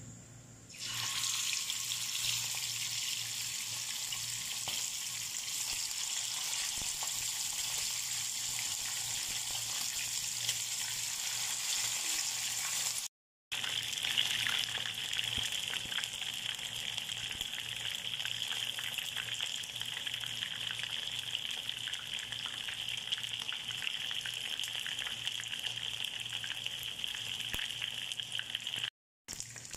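Chicken wings deep-frying in hot oil in a pan: a steady sizzle with fine crackling. It starts abruptly about a second in and breaks off briefly near the middle.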